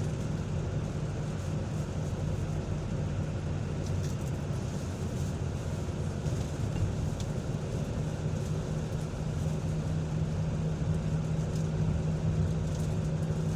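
Vehicle on the move: steady engine hum with road noise. The low hum grows stronger about halfway through.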